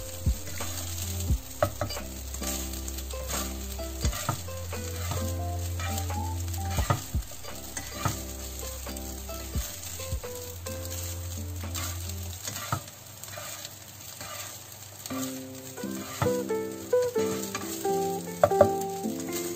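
Fried rice sizzling in a nonstick wok while a slotted spatula stirs and turns it, with irregular scrapes and taps of the spatula against the pan.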